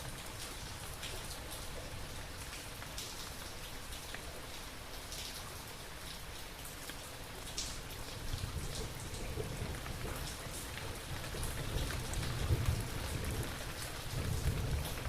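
Steady rain falling, with individual drops ticking sharply through it. About halfway through a low rumble of thunder builds and swells, strongest near the end.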